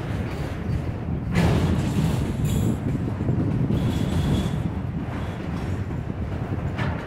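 A freight train rolling past with a steady low rumble that swells suddenly about a second in, and a brief thin high squeal from the wheels a few seconds later.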